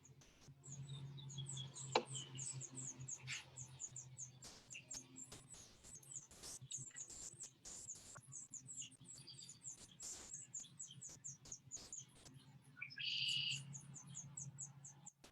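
Songbirds chirping: long runs of short, rapidly repeated high chirps, with a stronger, lower call near the end. A low steady hum lies underneath, with scattered light clicks, one sharper click about two seconds in.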